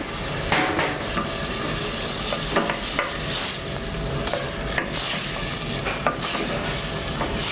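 Diced bacon, onion and tomato frying in a stainless steel pot with a steady sizzle, while a wooden spoon stirs and scrapes through it, working in tomato paste. The spoon's strokes come irregularly over the sizzle.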